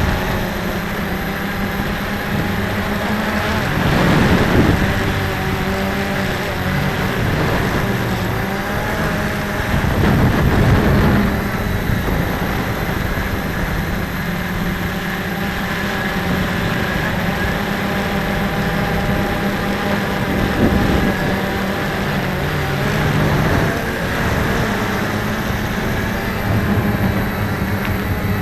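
Cheerson CX-20 quadcopter's motors and propellers buzzing, their pitch shifting up and down as it holds altitude against a strong wind. Gusts buffet the microphone about four and eleven seconds in.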